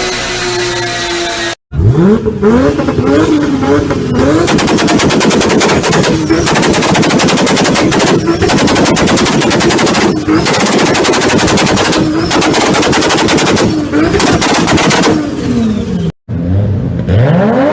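A car engine revved repeatedly, its pitch rising and falling, over a dense, rapid crackle like machine-gun fire from the exhaust. There is a hard cut about a second and a half in and another near the end, where a different engine starts a rising rev.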